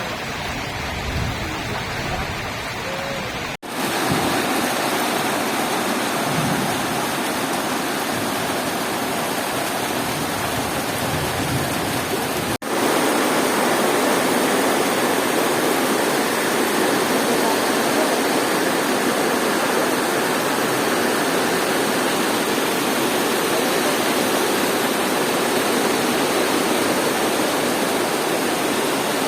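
Heavy rain falling steadily, a dense even hiss. It cuts out for an instant twice, about three and a half and twelve and a half seconds in, and is a little louder after each break.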